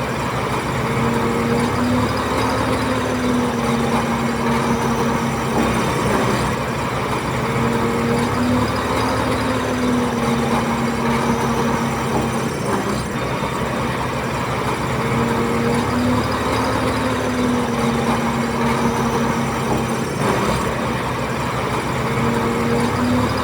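Bulldozer's heavy diesel engine working, its pitch rising and falling in repeated cycles about every six to seven seconds as it pushes soil.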